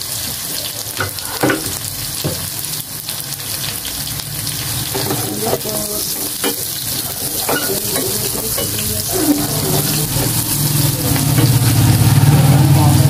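Sliced onions and garlic sizzling in hot oil in a frying pan, with a metal spatula scraping and knocking against the pan as they are stirred. The frying grows louder near the end.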